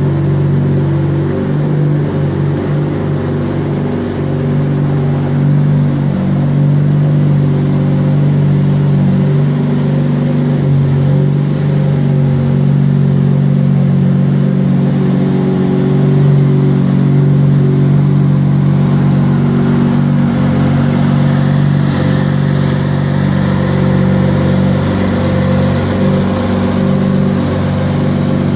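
Lamborghini Murciélago LP640's V12 engine idling steadily, an even low running sound with only slight shifts in pitch.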